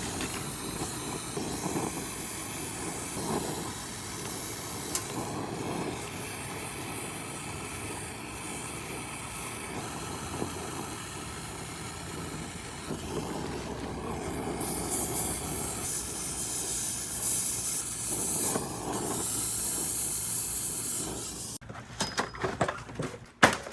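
Steady hiss of gas flowing during refrigerant line work. It grows louder in its second half and cuts off sharply near the end, followed by a few sharp clicks.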